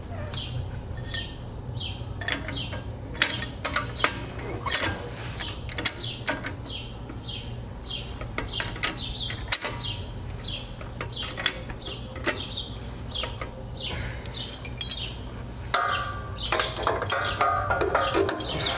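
A small bird chirps over and over, about two short chirps a second, over a steady low hum. Scattered metallic clicks and knocks come from hand work on the rear subframe bushing lockout bolt. Near the end a busier metallic rattling of tool work starts.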